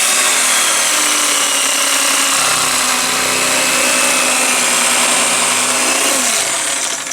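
Electric carving knife running steadily as it slices through a smoked brisket, its motor note dropping and cutting off about six and a half seconds in.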